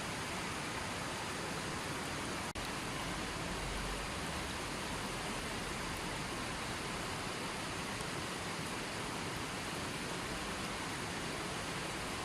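Running water, a steady even rush with no other sound over it, broken only by a momentary dropout about two and a half seconds in.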